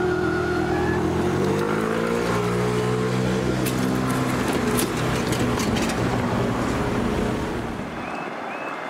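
Electric train passing the level crossing, its traction motors humming and whining in several tones, some rising in pitch, with sharp wheel clicks on the rails; it fades away after about seven seconds. Near the end the crossing's warning alarm starts, a repeating high tone about two to three times a second.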